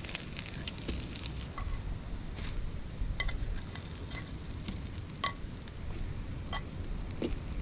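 Breadcrumbed tailor nuggets shallow-frying in hot oil in a frying pan: a steady sizzle with scattered pops and crackles.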